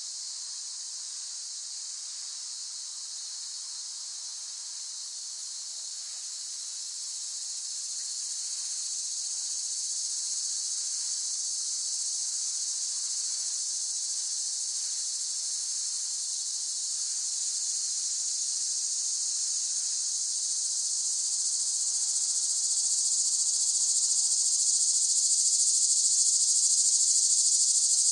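Cicadas singing in a continuous, high, shrill drone that grows gradually louder through the second half.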